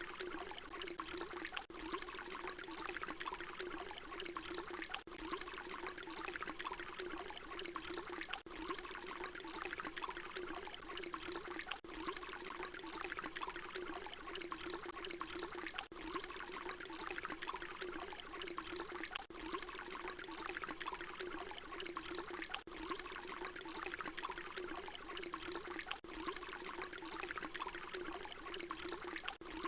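Water pouring in a steady stream. A short recording is looped, with a brief dip in the sound about every three and a half seconds where the loop repeats.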